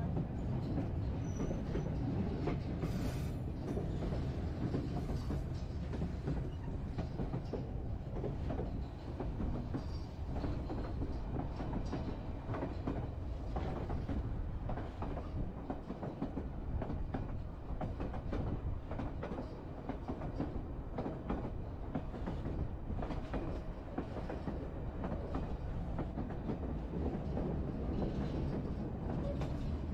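Narrow-gauge passenger train running along the track, heard from aboard: a steady low rumble of the cars with a scattered clatter of wheels on the rails.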